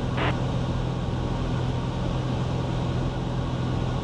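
Cessna 182 Skylane's piston engine and propeller droning steadily in flight, with a short hiss just after the start.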